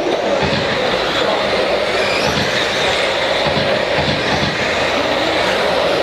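Several electric RC stadium trucks with 13.5-turn brushless motors racing round a dirt oval. Their motors and drivetrains make a steady, unbroken whining drone.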